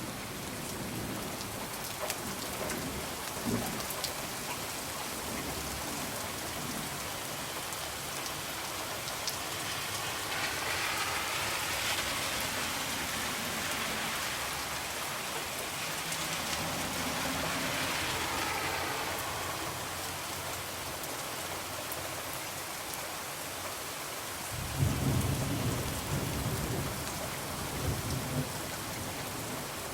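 Steady rain falling against a window pane, with a few sharp crackles near the start and a low rolling rumble of thunder beginning about 25 seconds in.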